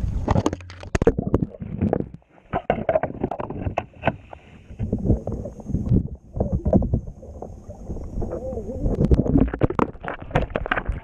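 Repeated knocks and bumps of a kayak and its gear being handled close to the microphone.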